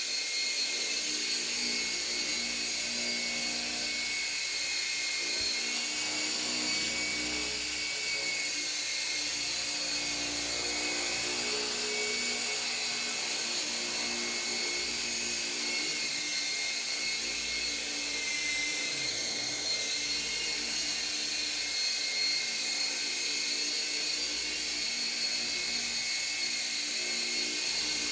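Hirobo radio-controlled model helicopter running steadily: a continuous high whine from its motor and rotors that wavers slightly in pitch.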